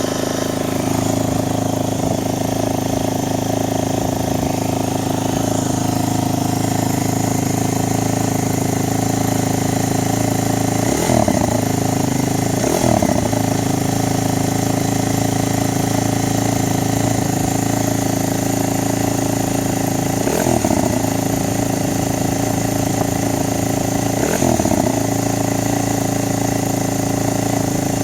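2015 Yamaha WR250F's fuel-injected single-cylinder four-stroke engine idling steadily as it warms up from a cold start, with four brief throttle blips where the pitch rises and falls.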